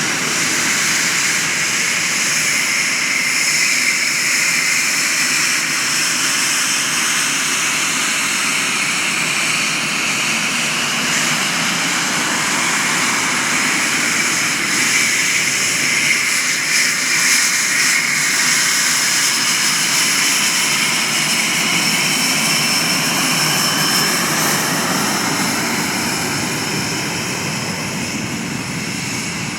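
Northrop F-5E Tiger II's twin General Electric J85 turbojets running: a steady loud jet roar with high turbine whines that drift slowly in pitch. It eases off slightly near the end.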